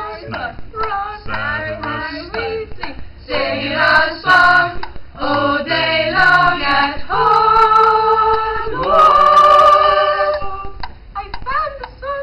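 A small group of young voices singing a cappella in harmony: quick, choppy sung syllables, then two long held chords near the end.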